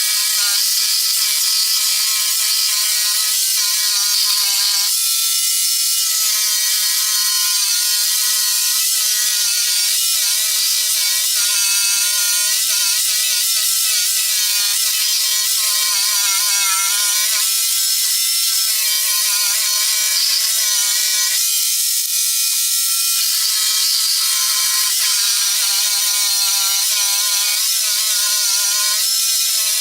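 Jigsaw running and cutting a curve, a steady high hiss over a whine whose pitch wavers as the blade takes load. The whine drops out briefly twice, at about five seconds and near twenty-two seconds, while the hiss goes on.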